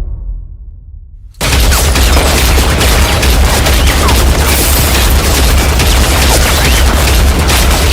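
Sustained rapid automatic gunfire, a dense unbroken rattle of shots with a heavy low boom beneath. It bursts in about a second and a half in, after a dying low rumble.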